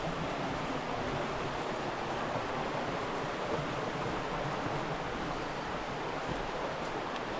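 Steady rushing of water, the even noise of a creek or rain.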